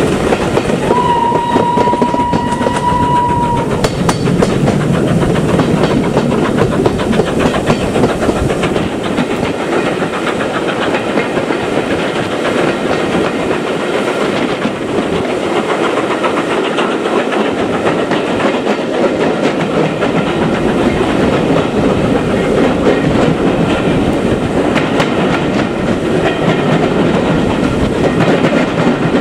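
Steam train running, its whistle sounding one steady note for about three seconds near the start, over the continuous rumble of the locomotive and the wheels on the rails.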